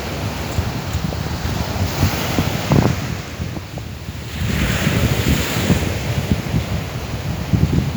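Strong wind buffeting the microphone over the sea's surf. A wave washes in with a swelling hiss about four and a half seconds in.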